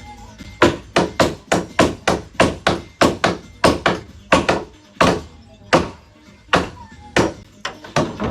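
A hammer driving nails into wooden beams: a quick run of sharp strikes, about three a second, that slows to spaced single blows near the end.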